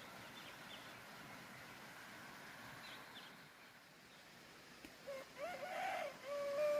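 Rooster crowing once, starting about two-thirds of the way in: a few short rising notes and then a long held note. Earlier, only a faint background with a few faint high chirps.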